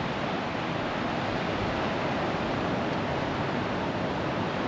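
Steady, even rush of surf and wind on an open beach.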